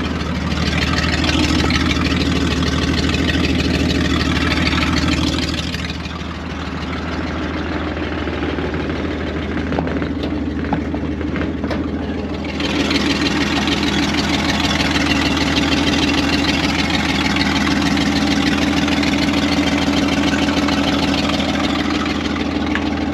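1967 Ford Mustang's 200 cubic-inch inline-six idling with a somewhat loud exhaust. It is louder for the first several seconds, softer for a stretch in the middle, and louder again from about halfway on.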